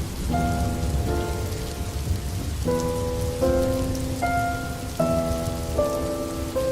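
Steady rain on a surface, with a soft melody of held notes laid over it, changing roughly every second.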